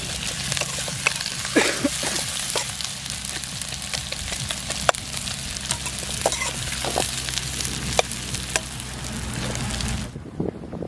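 Food sizzling in hot oil in a kadai, with scattered clicks and scrapes of a spatula stirring against the pan. The sizzle cuts off suddenly about ten seconds in.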